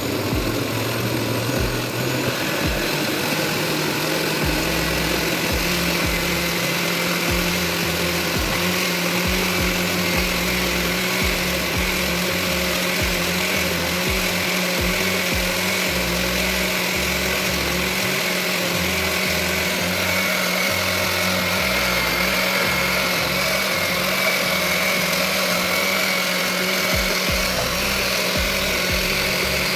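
Countertop blender motor running steadily at full speed, blending fruit chunks and water into juice.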